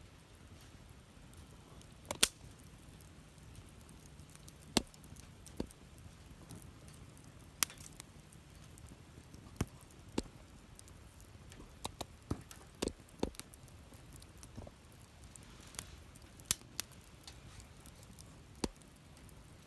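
Wood fire burning, with sharp, irregular crackles and pops every second or two over a faint steady hiss.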